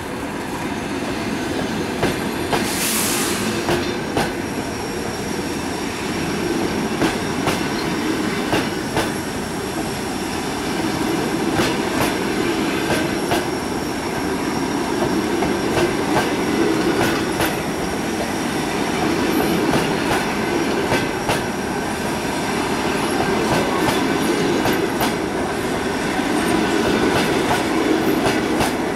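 Passenger coaches of a departing train rolling slowly past, their wheels clicking over the rail joints with a steady rumble and a faint high wheel squeal. A short hiss comes about three seconds in.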